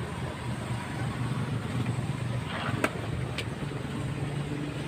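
Steady low engine-like drone, with a sharp click a little under three seconds in and a fainter click about half a second later.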